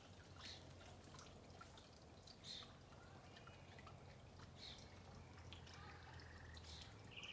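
Near silence: faint background with a steady low hum and a few faint scattered clicks and short high chirps.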